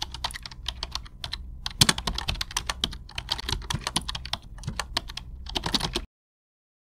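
Rapid, irregular clicking and tapping, several taps a second, over a low hum, stopping abruptly about six seconds in.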